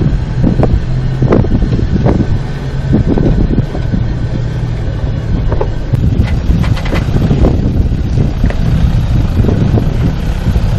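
Four-wheel-drive vehicle's engine running at low speed, with repeated knocks and thuds typical of crawling over a rocky trail, and wind buffeting the microphone.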